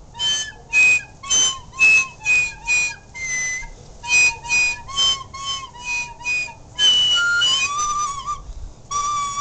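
Recorder played unskilfully: about a dozen short, breathy, separately blown notes, some squeaking up into higher tones, then a longer wavering note and a held note near the end.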